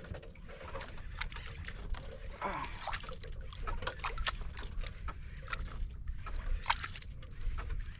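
Water sloshing and splashing against a small boat's hull in short irregular slaps, over a steady low rumble.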